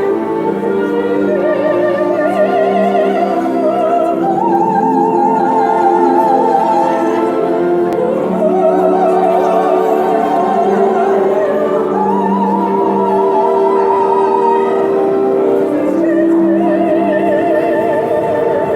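Woman singing opera: long held notes with wide vibrato, climbing step by step in phrases, over sustained lower accompanying notes.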